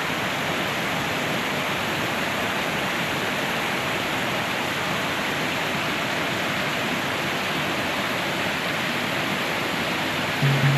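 Steady rush of flowing water at the spring-fed headwaters of the Sacramento River: an even hiss with no breaks. Music comes back in just before the end.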